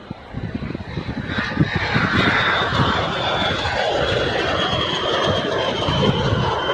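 B-52 bomber's jet engines running loud. The sound swells about a second in, and a high whine rides over a deep rumble.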